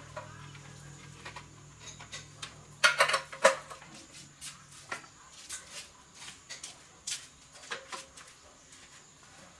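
Metal parts and tools clinking and knocking as they are handled, in a loose irregular string, loudest in a quick cluster about three seconds in.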